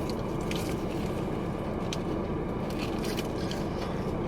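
Steady low background hum with faint scattered clicks.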